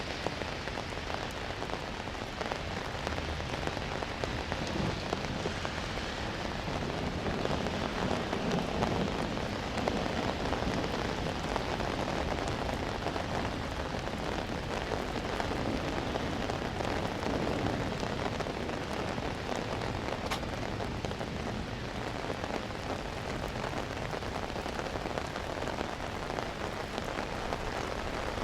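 Steady rain falling, with a dense patter of drops. A low rumble swells up in the middle and fades again.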